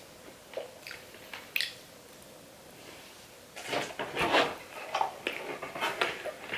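Close-miked mouth sounds of eating a crispy fried chicken wing: a few soft wet clicks of chewing, then from about three and a half seconds a run of loud crunching bites and chewing through the crisp skin.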